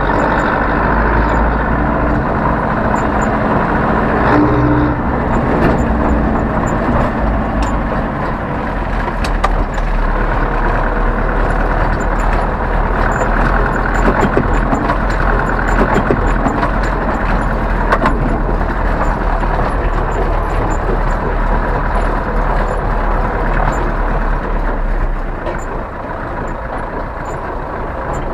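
Zetor 7011 tractor's four-cylinder diesel engine running steadily, with frequent light rattles over it. It drops a little in level near the end.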